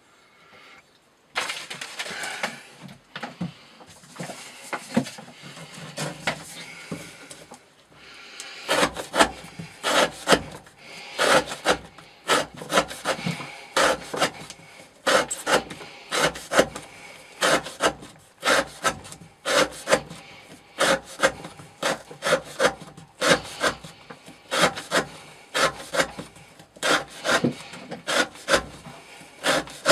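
A knife blade cutting rope over and over: a few seconds of irregular rubbing and scraping, then sharp cutting strokes at about two a second that keep going. This is the sound of a rope-cutting test of the edge's wear resistance.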